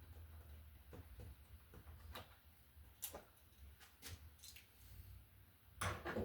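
Faint scattered clicks and taps of hands working on a wall receptacle and its wires, over a low steady hum. The sharpest clicks come about two, three and four seconds in, with a louder cluster near the end.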